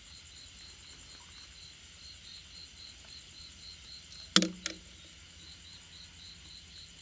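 Insects chirping in a steady high-pitched pulsing, about four pulses a second, with two sharp clicks close together a little past the middle.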